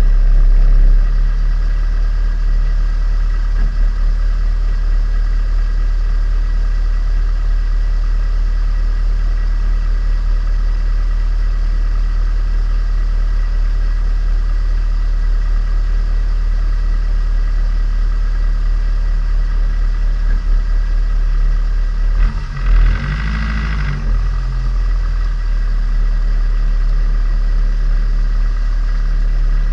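Turbocharged Nissan Micra engine running at steady revs during break-in of a freshly rebuilt engine. A little over twenty seconds in, the engine note briefly dips and swells as the revs change, then settles back to the same steady speed.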